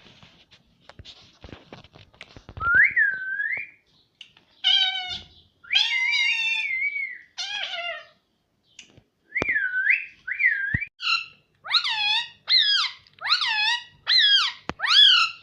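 Rose-ringed (ring-necked) parakeet calling and whistling: a rising whistle, a few longer warbling calls, then near the end a quick run of about six short swooping calls, one every half second or so.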